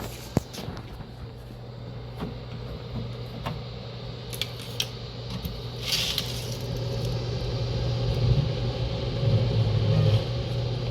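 Electric fan motor running with a steady hum, getting louder over the last few seconds, with scattered light clicks and knocks.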